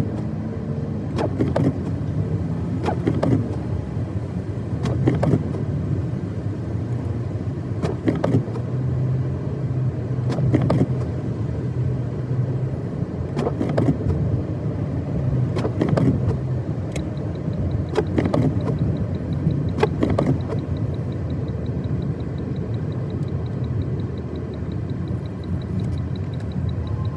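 A car's engine and tyres on a snow-covered road, a steady low rumble. Short sharp knocks recur every two to three seconds. A faint rapid ticking comes in after about seventeen seconds.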